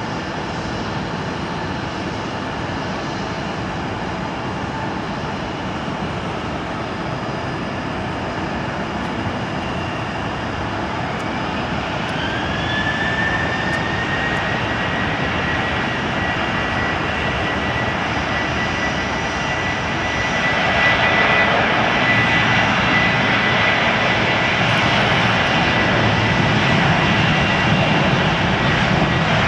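Boeing 737-800's CFM56 turbofan engines spooling up for takeoff: a whine rises about twelve seconds in and settles into a steady high tone, and the engine noise grows louder about twenty seconds in.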